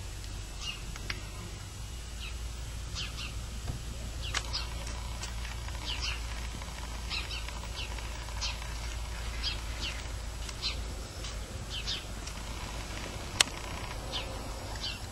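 Small birds chirping: short, high, falling chirps repeating every second or so over a steady low rumble. A single sharp click comes near the end.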